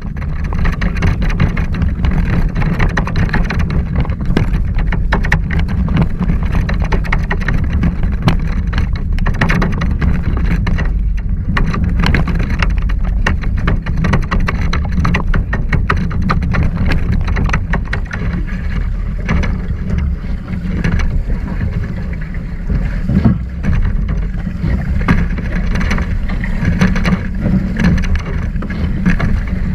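Wind buffeting the microphone over water rushing and splashing against the hulls of a Hobie 16 catamaran under sail, a loud steady rumble with uneven spattering through it.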